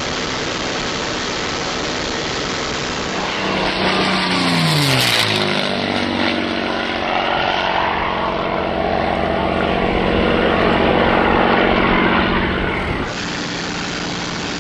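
P-51 Mustang's V-12 piston engine passing low: about four seconds in, the engine note drops sharply in pitch as the aircraft goes by. A strong, steady engine drone follows, then turns duller near the end.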